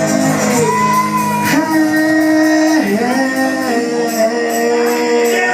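A singer holding long drawn-out notes over strummed guitar, live.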